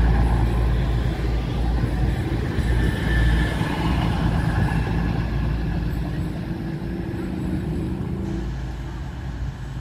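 An express passenger train passes close by at speed, its wheels rumbling on the rails. The noise slowly fades as the last coaches go past.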